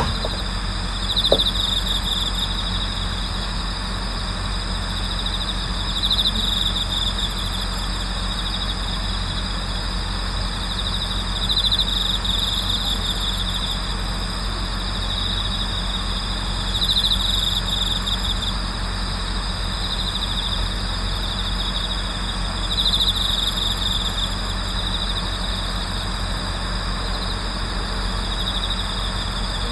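Chorus of autumn crickets calling in a steady high trill, with a louder trill swelling up every five or six seconds. A steady low hum runs underneath.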